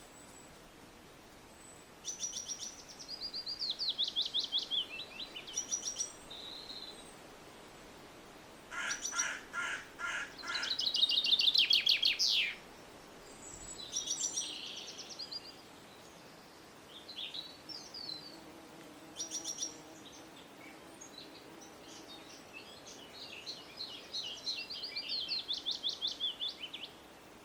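Songbirds singing in separate bouts of high, fast trilled phrases with quiet gaps between, the loudest a long rapid trill around the middle that ends abruptly.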